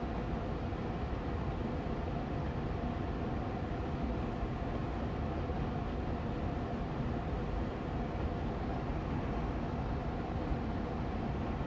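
Air purifier fan running steadily on medium speed: a constant whooshing hum, strongest in the low range, with a faint steady tone from the motor.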